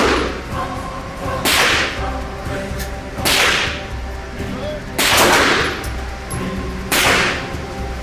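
AR-15 short-barrelled rifle firing single shots at a steady pace, four shots about two seconds apart, each sharp report trailing off in a short echo. The tail of an earlier shot is still dying away at the start.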